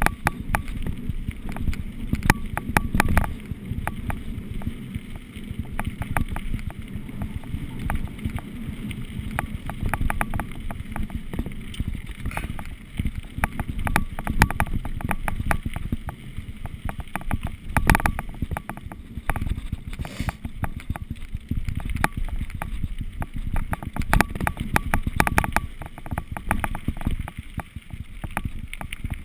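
Mountain bike rolling fast down a rough trail: wind buffeting the microphone, with constant rattling and clicking from the bike over rocks and gravel.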